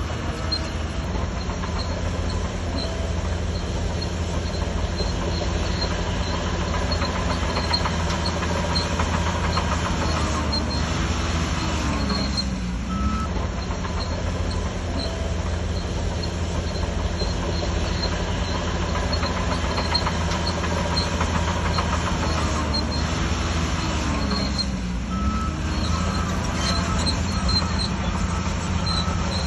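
Shantui DH17C3 crawler bulldozer's diesel engine running steadily under load, with the clatter of its steel tracks. Twice, about twelve seconds in and again near twenty-five seconds, the engine note dips briefly and rises again.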